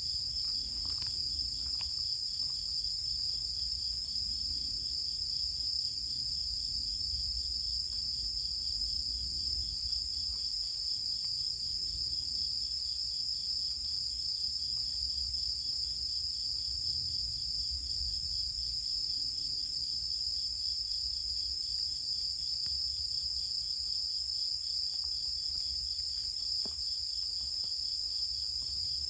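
A dense chorus of night insects trilling steadily without pause, high-pitched, with a faint low rumble beneath.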